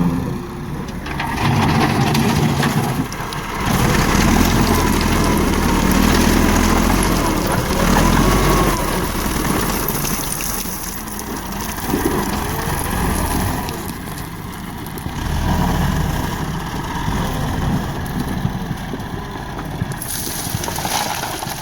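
Massey Ferguson tractor's diesel engine running under load while working a front loader, its level rising and falling.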